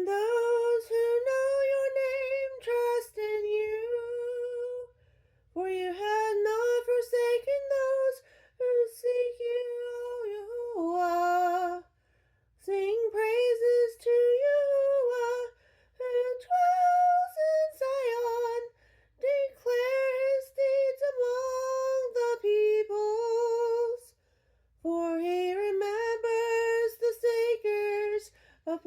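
A mezzo-soprano woman singing a psalm alone, with no accompaniment, in phrases of a few seconds broken by short silent pauses.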